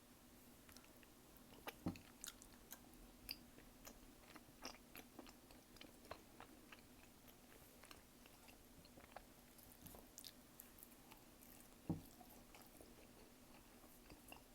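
Close-miked mouth eating sounds as tteokbokki and gimbap are bitten and chewed: irregular wet clicks and smacks, with two louder bites about two seconds in and near the end, over a faint steady hum.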